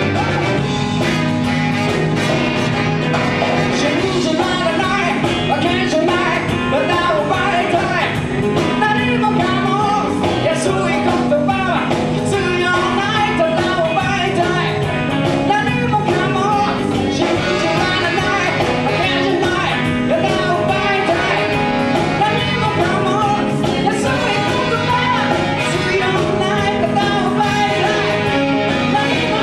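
Live band playing a rock-and-roll / blues-style song, with guitar and a vocal line.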